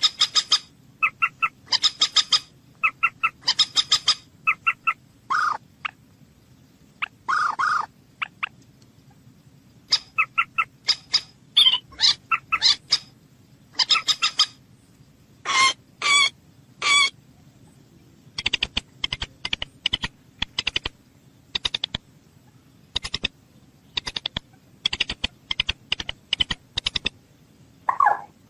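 Bird calls: short, sharp notes repeated in quick series, with a few longer, lower calls mixed in.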